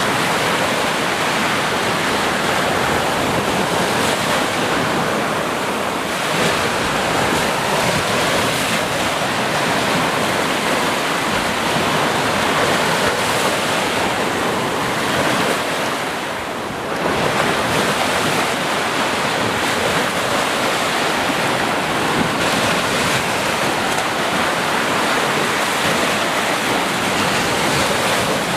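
Sea surf washing in without a break, a steady rush of breaking waves that dips briefly a little past halfway before swelling back.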